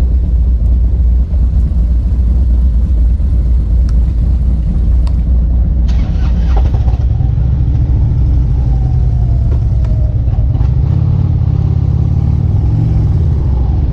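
Loud car engine running, its sound changing about six seconds in to a steadier, deeper hum.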